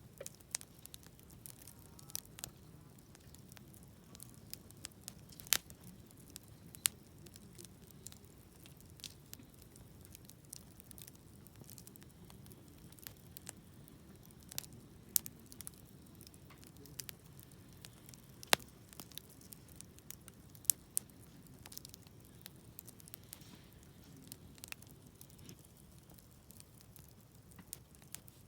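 Wood campfire burning: irregular sharp pops and crackles, a few much louder snaps among them, over a low steady rush.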